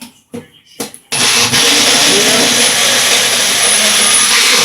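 Personal countertop blender (Magic Bullet type) blending milk, banana and peanut butter: a few knocks in the first second, then the motor starts about a second in and runs steadily and loud.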